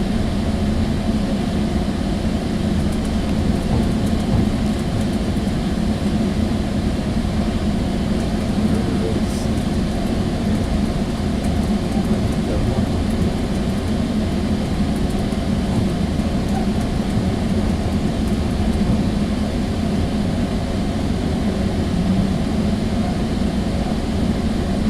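Steady rumble of a Sounder commuter rail coach under way, heard from inside the car: wheels running on the rails with a low, even drone.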